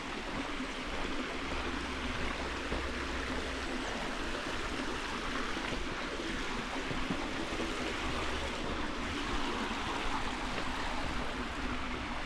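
Creek water running over rocks, a steady rushing.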